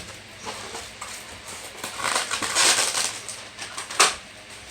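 Kitchen handling noises: scattered clicks and taps, a rustling, crackly stretch in the middle, and one sharp click about four seconds in.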